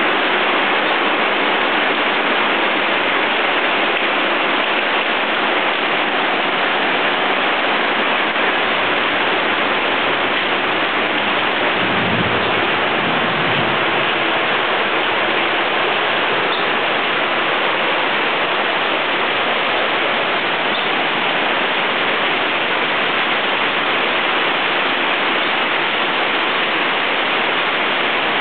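Heavy rain pouring steadily during a thunderstorm, with a brief low rumble of thunder about twelve seconds in.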